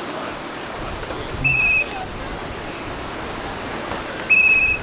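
Strong wind buffeting the microphone as a steady rushing noise, with two short, high, trilling whistle blasts, about a second and a half in and near the end.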